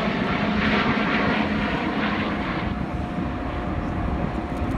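Jet noise from an Airbus A350 XWB's two Rolls-Royce Trent XWB turbofan engines in flight, a steady rushing sound with a low hum under it. The higher hiss falls away about two and a half seconds in.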